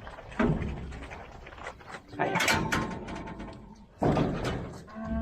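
Metal gates and panels of cattle-handling equipment banging and rattling, with loud knocks about half a second, two seconds and four seconds in.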